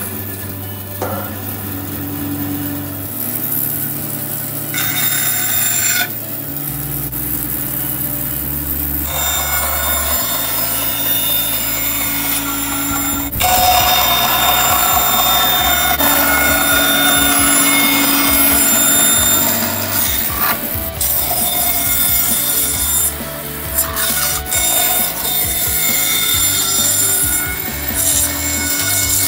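Bandsaw running and cutting through the willow of a cricket bat at the shoulder, a steady sawing and rasping that grows louder about halfway through. Music plays underneath.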